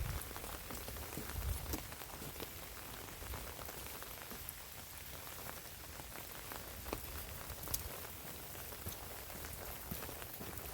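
Steady rain falling, with individual drops ticking sharply close by. A low rumble sits under it in the first couple of seconds.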